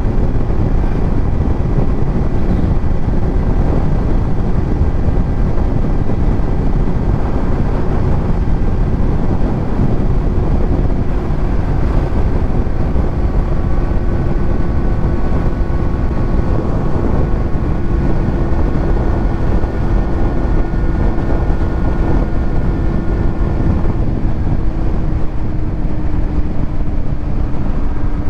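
Kawasaki Z900's inline-four engine through a titanium Arrow exhaust, cruising at a steady pitch that sags slightly near the end, under heavy wind rush on the helmet-mounted microphone.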